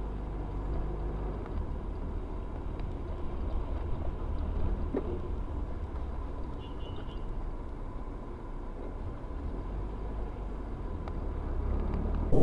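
Steady low rumble of a car driving: engine and road noise with a faint steady hum, and no sharp impacts.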